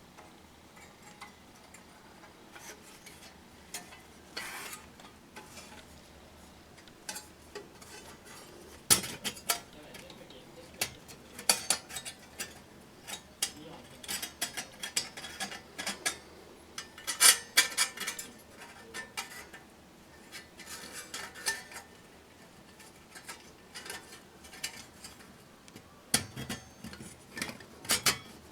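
Light metal items clinking and clattering at irregular intervals as they are handled, with several louder clanks.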